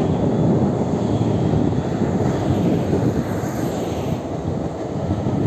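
Old ICF passenger coaches rolling past close by: a steady, loud rumble of steel wheels on the rails.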